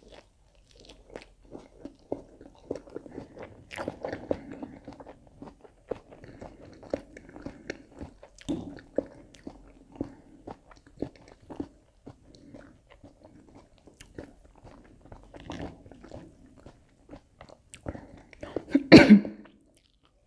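Close-up chewing of crisp lettuce salad: irregular wet crunches and mouth clicks. Near the end comes a louder, longer bite into a breaded tomato-filled sofficino.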